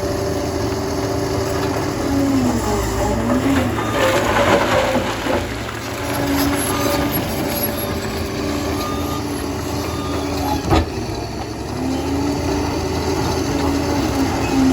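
Liebherr PR 746 crawler dozer at work: its diesel engine runs steadily under a whine that rises and falls in pitch, with one sharp knock about eleven seconds in.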